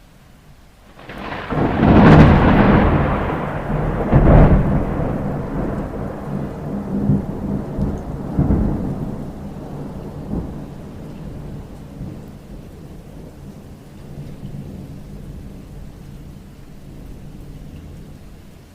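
A thunderclap about a second in, with two loud cracks and a weaker one a few seconds later, then a long rumble that slowly dies away, over steady falling rain.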